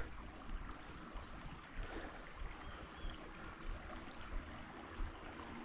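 Faint steady rush of running creek water, with small irregular low bumps and a thin steady high-pitched line above it.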